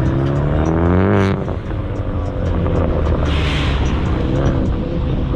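Car engine revving up, rising in pitch for about a second and then dropping off, with a short hissing burst a little past the middle.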